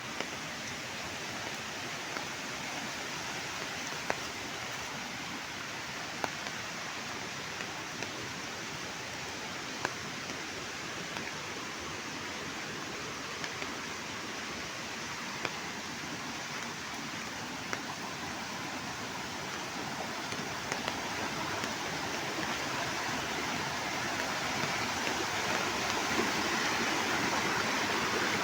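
Heavy rain pouring down as a steady hiss, with scattered sharp drop impacts standing out now and then; the downpour grows louder over the last third.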